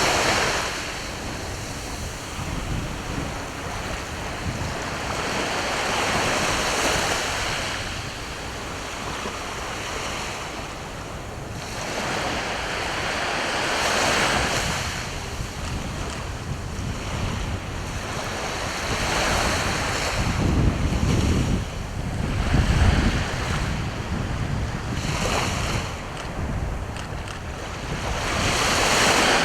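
Sea waves breaking and washing up the shore, the surf swelling and fading every few seconds. About two thirds of the way through, wind buffets the microphone with a low rumble.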